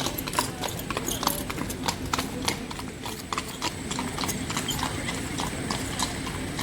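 Horse's hooves clopping on hard ground in an irregular run of sharp knocks, several a second.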